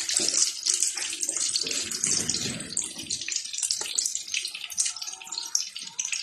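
Chicken pieces frying in hot oil in an aluminium wok: a steady sizzle with many small crackles, a little louder in the first few seconds.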